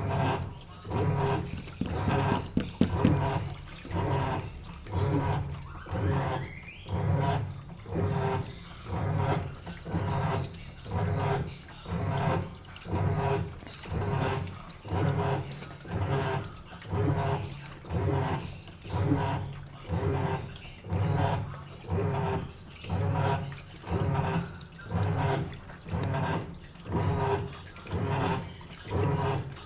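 Sharp washing machine in its wash cycle: the motor turns the load back and forth with water sloshing, an even swish about every second and a bit, each stroke carrying a low motor hum.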